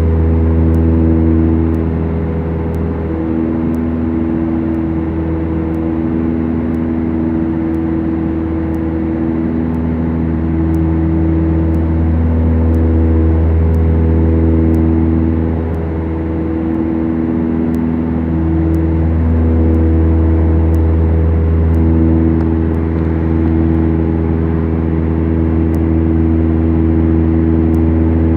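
Twin four-cylinder Lycoming engines and propellers of a Beechcraft Duchess droning steadily, heard inside the cockpit. Parts of the drone swell and fade every few seconds in a slow wavering beat, as the two engines run slightly out of sync.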